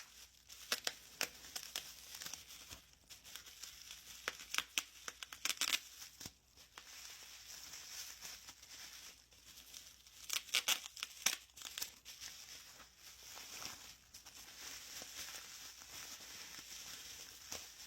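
Packaging being unwrapped by hand, crinkling and tearing in several short bursts with quieter rustling between them.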